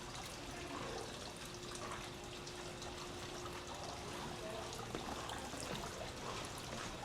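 Running water pouring and trickling steadily. A faint steady hum sounds under it and stops about five seconds in.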